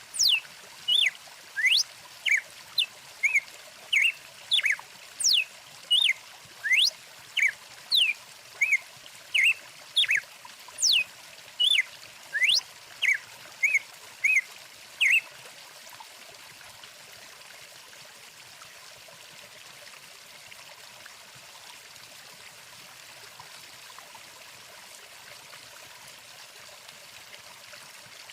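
Steady rush of a flowing stream, with a bird singing quick chirps and whistled rising and falling notes about twice a second. The song stops about halfway through, leaving only the running water.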